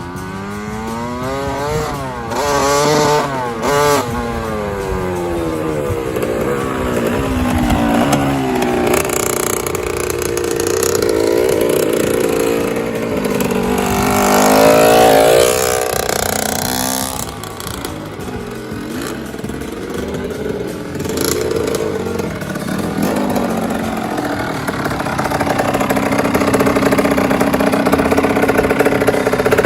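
1983 Honda CR80R's 80 cc two-stroke single-cylinder engine being ridden, its pitch repeatedly rising and falling as the throttle is worked and the bike gathers speed. It is loudest about halfway, then settles into a steadier note near the end.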